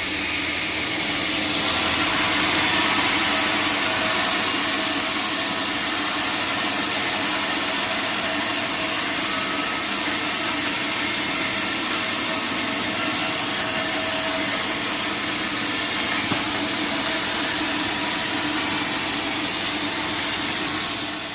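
Sawmill bandsaw blade cutting through a teak log, a steady sawing noise with the machine's hum beneath it. A brighter hiss rides on top through the middle of the cut. The sound falls away at the very end.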